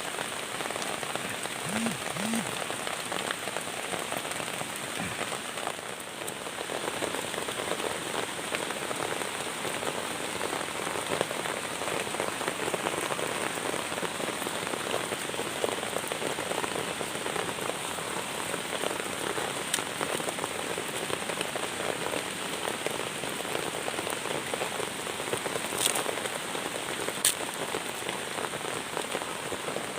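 Steady rain falling on a surface, with a constant high-pitched tone over it and two sharp ticks near the end.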